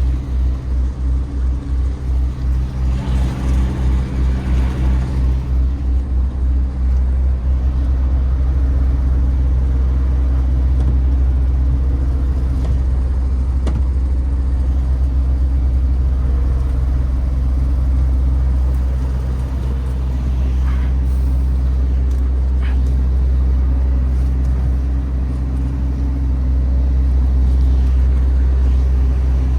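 The MAN TGX 18.510 truck's straight-six diesel engine running as a steady low hum. For the first several seconds the hum throbs at an even, fast rate, then it evens out into a smooth drone.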